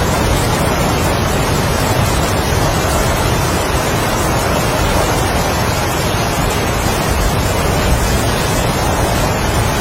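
Heavy rain and strong wind: a dense, steady rush with no distinct drops, gusts or thunder standing out.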